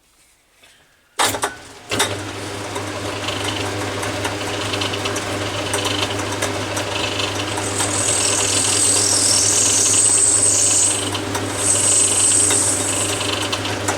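Atlas 10 metal lathe switched on about a second in and running with a steady hum, the tool chamfering a brass nut. A high-pitched squeal from the cut comes in two stretches in the second half.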